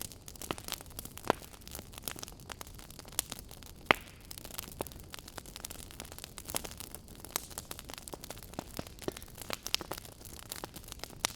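Wood fire crackling in a fireplace: a steady low hiss with irregular sharp pops, two louder ones about a second and about four seconds in.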